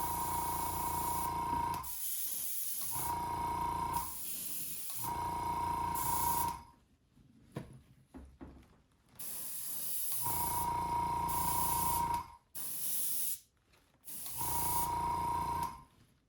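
Airbrush spraying paint in about five short bursts of one to two seconds each. Each burst is a hiss with a steady high tone running through it, and each stops when the trigger is released.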